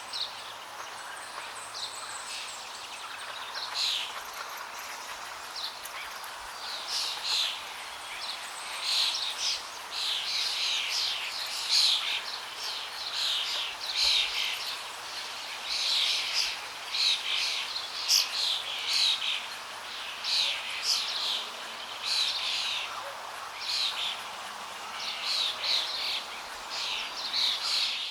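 Several small birds chirping and calling in quick, overlapping short notes over a steady rush of flowing water; the chirping grows busier from about a third of the way in.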